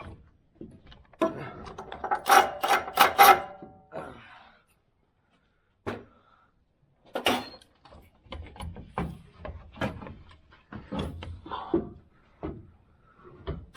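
Metal tools and parts clanking during hands-on steering work, with a quick cluster of loud metallic clanks that ring briefly about two to three seconds in, then scattered knocks and clicks.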